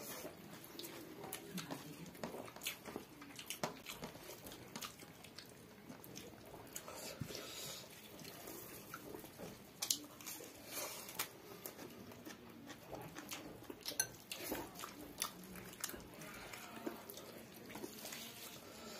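Close-up eating sounds of two people chewing chicken and rice by hand: irregular wet chewing, lip smacks and small mouth clicks.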